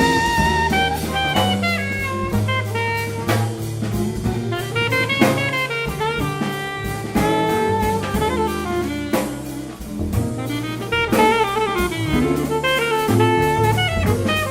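Small jazz band playing live: a drum kit keeps time with frequent cymbal and drum strokes under a bass line stepping from note to note, while a horn or guitar plays a moving melodic line on top.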